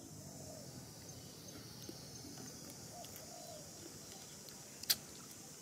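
Faint bird calls, short curved notes repeated now and then over a steady background hiss, with one sharp click about five seconds in.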